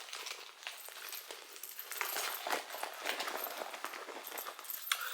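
Rummaging through a handbag: rustling with many light clicks and clinks of small items being handled, and a sharper click near the end.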